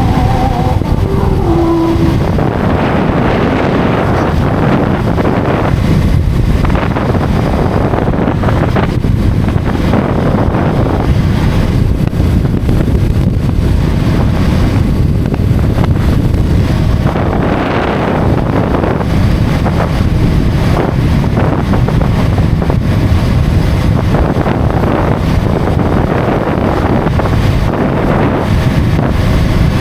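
Wind rushing over the microphone of a motorcycle riding at highway speed, a loud, steady, low-heavy rush with road and engine noise mixed in.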